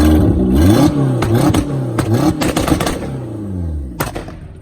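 VW 1.8T turbocharged four-cylinder with a big T3/T4 turbo revved repeatedly against its 2-step launch limiter at about 4,000 rpm, the revs rising and falling with sharp pops and cracks. A last crack comes about four seconds in as the revs drop back toward idle.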